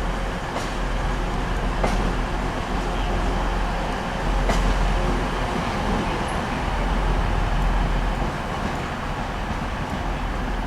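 Class 185 diesel multiple unit running as it pulls slowly into the platform: a steady diesel drone and rumble, with three short sharp clicks in the first five seconds.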